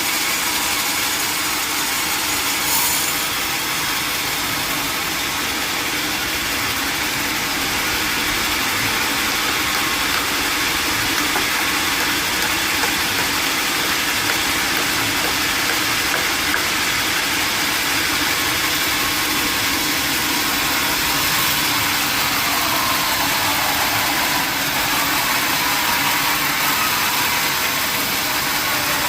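Sawmill machinery running steadily: a loud, continuous mechanical drone with a hiss spread from low to high pitches, and no distinct knocks or breaks.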